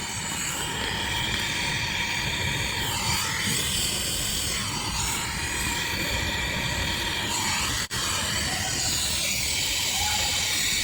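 Gas brazing torch flame hissing steadily as a copper refrigerant pipe joint is brazed, with a momentary break about eight seconds in.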